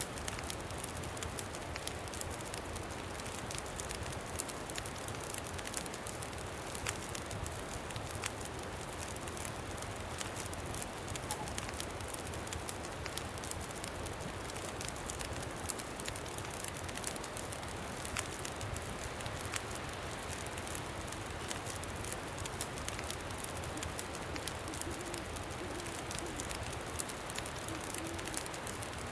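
Campfire crackling with irregular sharp pops, over a steady low rumble of wind.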